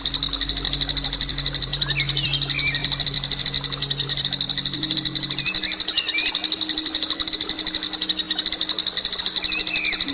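A songbird's long, unbroken rolling trill: a very fast, high-pitched rattle of identical notes held without a break, the harsh 'nembak kasar' roll used as tutor song for competition birds. Faint short chirps from other birds sound underneath.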